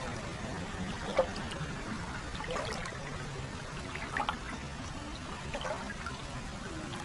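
Hot-spring water trickling and pouring steadily into an open-air foot bath, with a few brief splashes.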